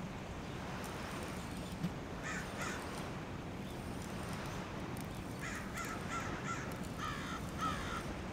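A bird giving short, harsh cawing calls, two about two seconds in and then a run of about eight more from about five seconds in, over a steady low background rumble.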